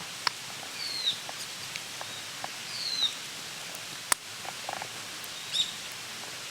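A bird gives two short down-slurred whistled calls, then another brief call near the end. Several sharp clicks and ticks sound over a steady hiss, the loudest click about four seconds in.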